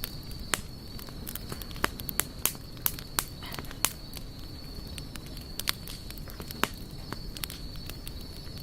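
Campfire burning wood, crackling with irregular sharp pops and snaps over a low steady rumble. A thin steady high-pitched tone runs underneath.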